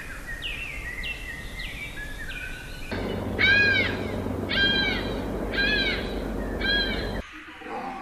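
Bird calls: for about three seconds a run of short, repeated call notes over a steady hiss, then four loud arching calls, each rising and falling, about one a second, over a louder low background. The sound cuts off abruptly near the end.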